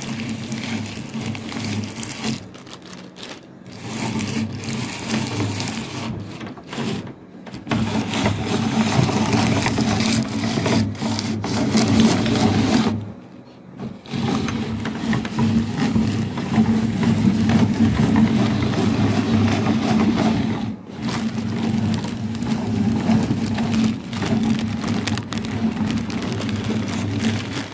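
Electric meat grinder running with a steady motor hum while crushing popcorn, a rough crackling over the hum, with several brief breaks where the sound drops out.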